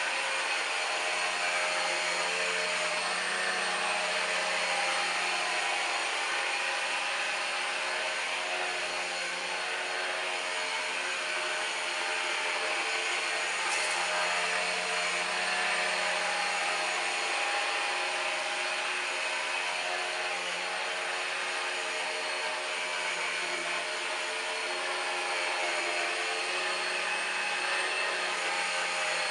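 Numatic Henry Quick cordless stick vacuum cleaner running steadily, a constant motor whine over airflow noise.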